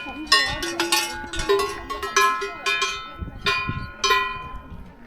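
Cowbells on grazing cattle clanking irregularly, several strikes a second, each ringing on briefly with a metallic jangle.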